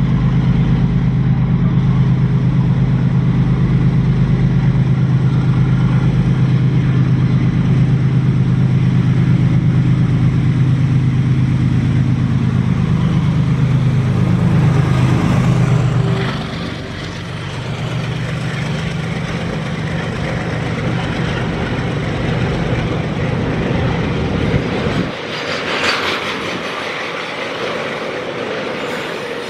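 Train passing on the track: a loud, steady low hum that falls in pitch as it goes by, then wheel and running noise that cuts off sharply near the end, followed by a brief higher-pitched sound.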